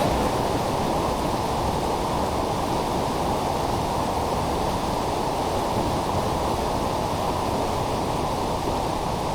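Steady, even rushing noise with no distinct events, heaviest in the low and middle range.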